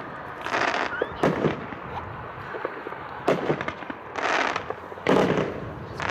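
Consumer (1.4G) firework cake going off outdoors: about six sharp bangs from shots and aerial breaks, spaced unevenly, each trailing off in a hissing, crackling tail.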